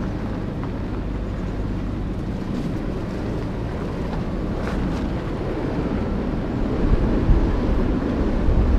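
A 2019 Ford Ranger pickup driving, with a steady low rumble of road and wind noise that gets louder about seven seconds in.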